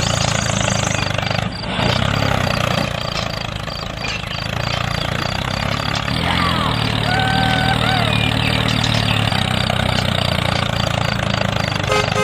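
An engine running steadily, with a brief dip in level about a second and a half in.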